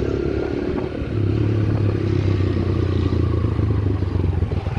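Yamaha YBR 125G's 125cc single-cylinder engine running as the motorbike is ridden, dipping briefly about a second in and then holding steady.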